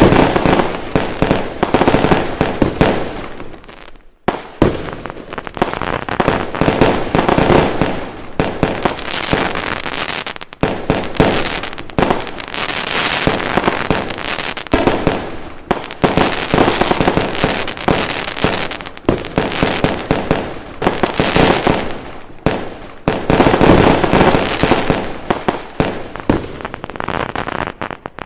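Fireworks going off in a dense, continuous barrage of bangs and crackling, with a brief lull about four seconds in.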